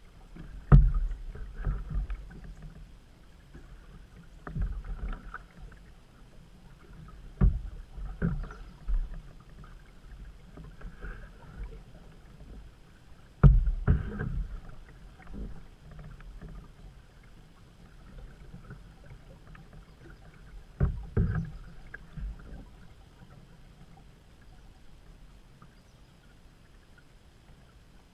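A canoe being paddled, with irregular knocks and thumps a few seconds apart, from the paddle and the hull, over low water noise.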